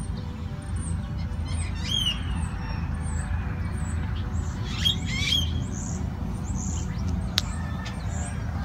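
Birds chirping and squawking in short, high calls, a cluster about two seconds in and another around the middle, over a steady low rumble. A single sharp click comes near the end.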